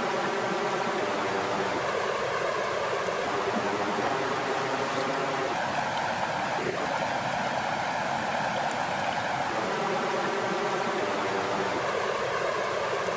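Water flowing steadily, a continuous even rush with no breaks.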